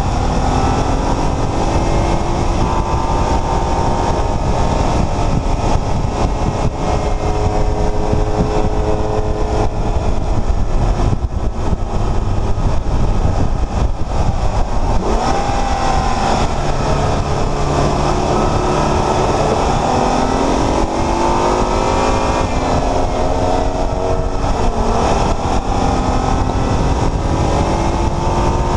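Porsche Macan S's twin-turbo V6 heard from inside the cabin while driven hard, its pitch repeatedly climbing as it accelerates and dropping back at each gear change or lift. A steady rumble of road and wind noise runs underneath.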